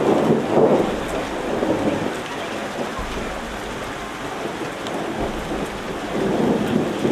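Rain falling steadily: a dense hiss with scattered drop ticks, swelling into a louder low rumble at the start and again near the end.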